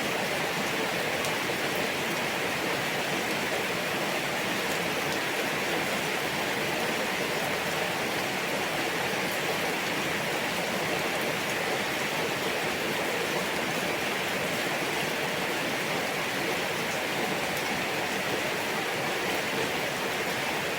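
Steady rain falling: an even, unbroken hiss with faint drop ticks here and there.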